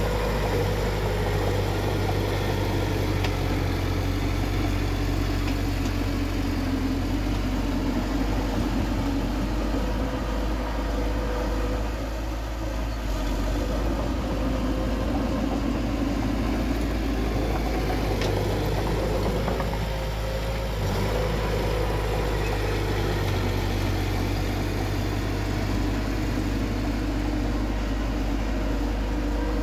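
Heavy diesel engine of earth-moving machinery running steadily.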